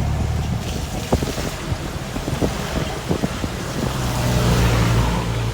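Car cabin road noise on a rainy drive: a steady low rumble of engine and tyres with a noisy hiss, and scattered short taps and clicks.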